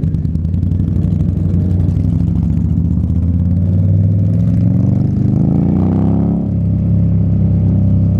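Motorcycle engines running as a group rides together. One engine revs up, its pitch rising for about three seconds, then dips briefly about six seconds in before settling back to a steady run.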